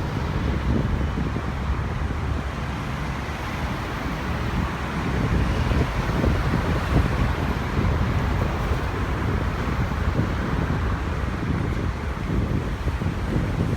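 Wind buffeting the microphone over a steady low rumble, with no distinct engine whine or single event standing out.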